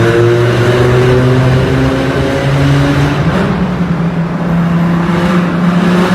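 Lamborghini Gallardo's V10 engine running loud in a tunnel, holding steady revs for about three seconds, then stepping up to higher revs and holding there.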